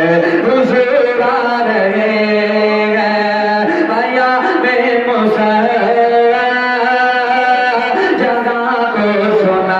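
A naat sung in long held notes that slide and ornament slowly between pitches, over a steady low drone.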